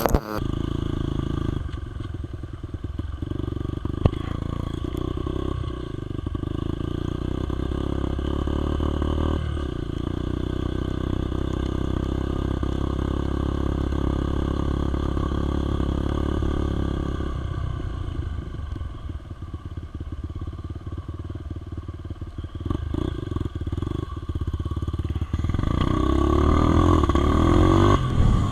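Dirt bike engine running while being ridden, steady for a long stretch, easing off for a few seconds, then revving up louder near the end.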